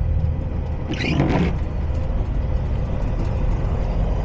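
Semi truck's diesel engine running, heard from inside the cab: a steady low drone with a faint steady hum above it. A brief short sound stands out about a second in.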